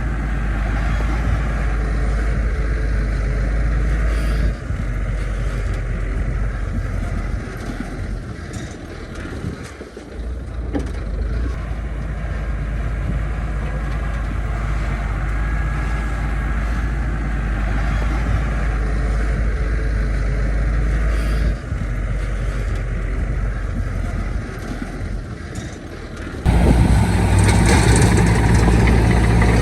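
Bulldozer's diesel engine running under load, easing off briefly a few times. Near the end the sound jumps abruptly louder.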